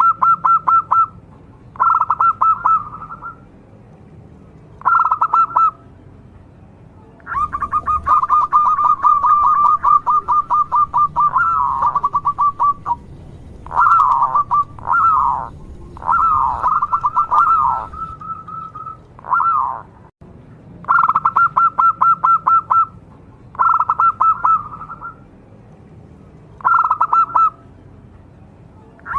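Zebra dove (perkutut) cooing in its rapid, pulsed phrases, each a quick run of notes, repeated with short pauses between them and a longer, more varied run of calls through the middle.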